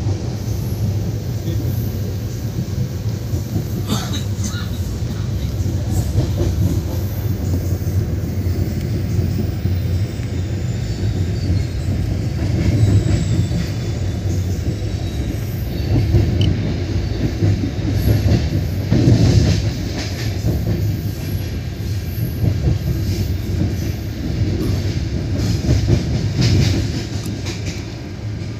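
Running noise of a moving passenger train heard from inside the coach: a steady rumble of wheels on rail, with sharper clatters about four seconds in and a few more in the second half as it runs through the yard tracks.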